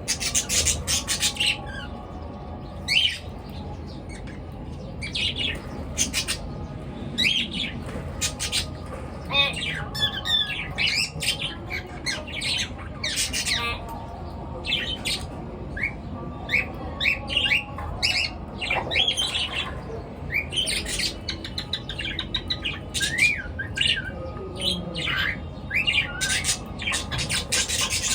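Pet birds chirping and squawking: many short, sharp calls coming irregularly, several birds at once.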